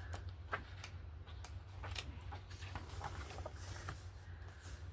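Small, irregular clicks and rustles of paper being handled at a craft table, over a steady low hum.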